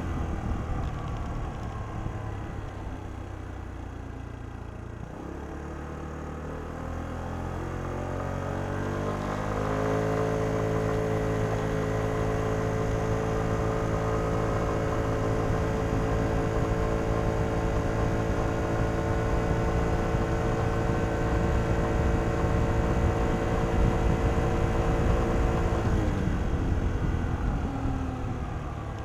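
Kymco Downtown 125i scooter's engine through its stock exhaust, heard from onboard. The pitch sinks as it eases off at first, then rises steadily as the scooter accelerates over several seconds. It holds one steady pitch for about fifteen seconds at cruising speed, and drops away near the end as the throttle closes.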